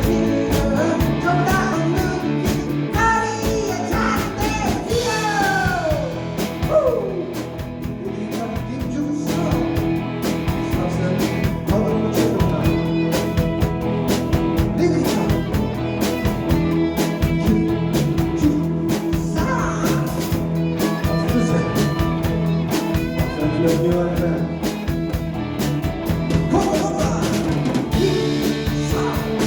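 Rock band with electric guitars, bass guitar and drum kit playing a song, with sliding melodic lines a few seconds in and singing at times.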